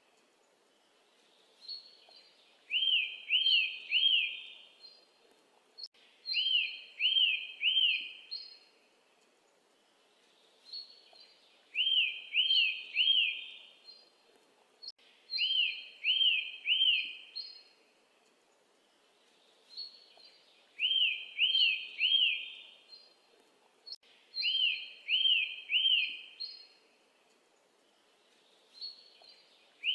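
Birdsong: a short phrase of three quick arched chirps with thin higher notes over them, repeated about every four and a half seconds over a faint steady hiss.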